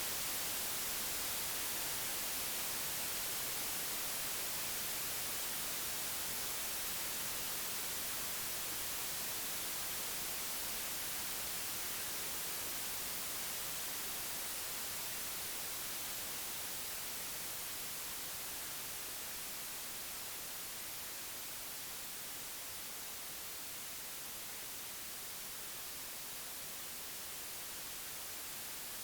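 Computer-generated white noise: a steady, even hiss with no samples or filtering, brightest in the treble, its level slowly easing down a little over the second half.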